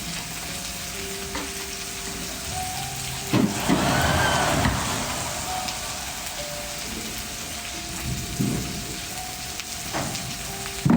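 Steady sizzling of food cooking over a wood fire. A few sharp knocks stand out, and a louder, rushing swell comes about three to four seconds in.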